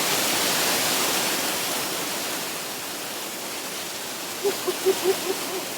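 Waterfall rushing steadily, a little louder for the first couple of seconds. Near the end there is a quick run of about six short pitched sounds over the rush.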